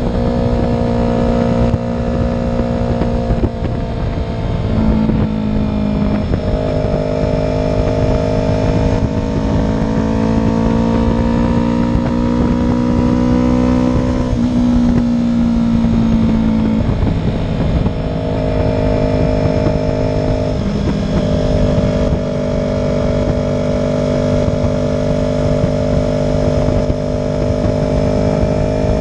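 Motorcycle engines running steadily at low revs, their pitch drifting and stepping every few seconds, over a constant low rumble.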